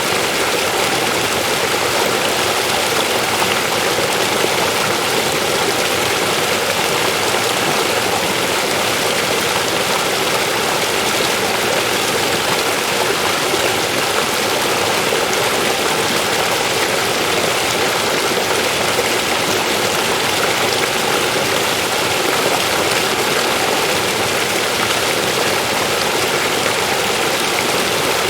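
River water flowing and splashing over rocks, a steady rushing with no breaks.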